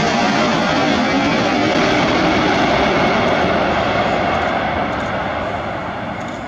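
Loud jet engine noise from a Boeing 747-400 freighter's four turbofan engines as it lands, steady at first and fading away from about four seconds in as the aircraft moves off.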